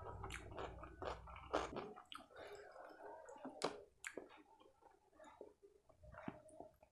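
Close-miked chewing, with a low rumble under it for about the first two seconds, then wet squishing and sharp clicks as bare fingers handle a piece of makki roti (maize flatbread) and scoop up paneer masala gravy.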